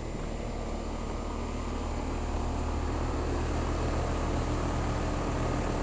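Carrier central air-conditioning equipment running: a steady low hum under an even rush of fan air, growing slightly louder about two seconds in.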